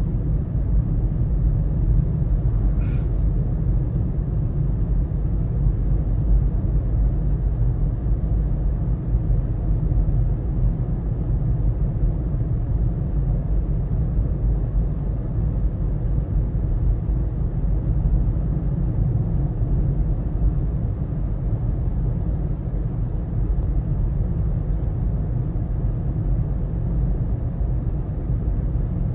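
Steady low road and engine rumble inside a moving car's cabin, with one faint click about three seconds in.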